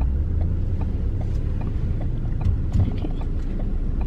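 Steady low rumble of a car driving, heard from inside the cabin, with faint light clicks a few times a second.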